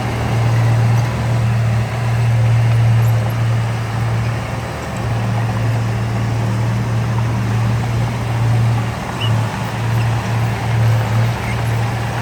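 Diesel engine of heavy earthmoving machinery running steadily with a low drone, dipping briefly and wavering in level now and then as it works.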